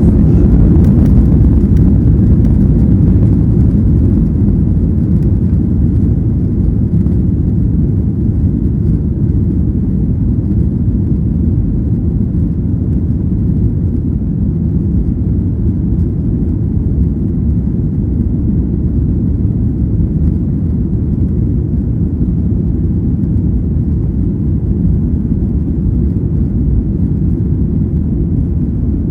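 Boeing 737-800's CFM56 jet engines and airflow heard inside the passenger cabin as a loud, steady low rumble, loudest in the first few seconds and then easing slightly.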